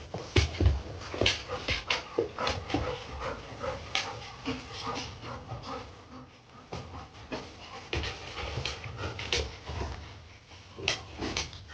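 A dog panting, with many irregular short clicks and knocks.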